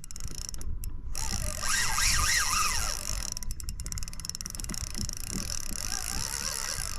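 Penn Clash spinning reel working against a heavy fish, its mechanism giving runs of rapid fine clicking three times, with a wavering whine in between.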